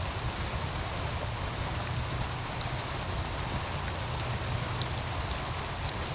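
A wood fire crackling in irregular small ticks and pops, with one louder pop near the end, over the steady rush of a meltwater stream.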